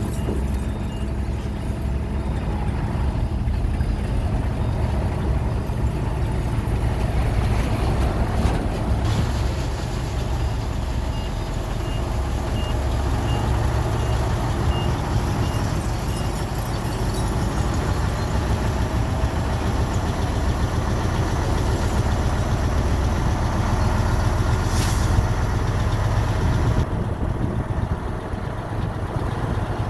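Heavy diesel earthmoving machinery running steadily, with a reversing alarm beeping about ten times in the middle. A brief sharp burst comes near the end, after which the engine sound eases.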